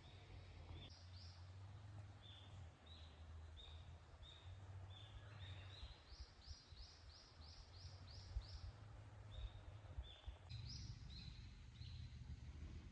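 Wild birds calling faintly, short high chirps repeated throughout, including a quick run of about eight notes near the middle, over a low steady hum.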